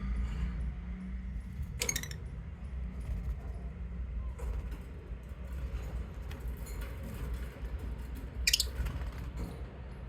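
Pet lovebirds giving two short, shrill chirps, about two seconds in and again near the end, the second sliding down in pitch, with faint small chirps and ticks between, over a steady low hum.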